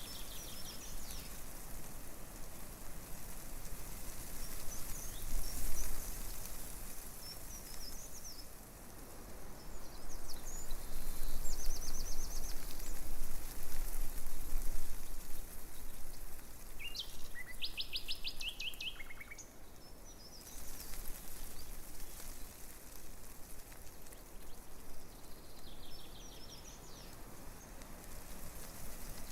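Breeze rustling through tree leaves in a steady hiss that swells and eases, with small birds calling now and then in short, rapid high trills.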